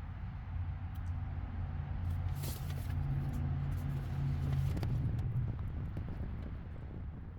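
A motor vehicle engine running with a low, steady rumble that shifts in pitch about four and a half seconds in, with a few light clicks over it.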